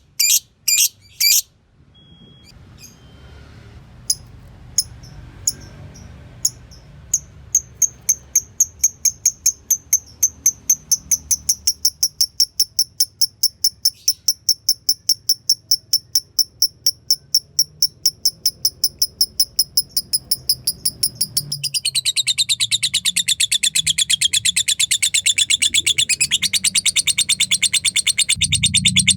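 Lovebird calling: a run of short, high chirps, evenly spaced and quickening, the 'ngetik' tick. About twenty seconds in it breaks into a long, fast, continuous chatter, the 'ngekek' that hobbyists prize in a fighter lovebird.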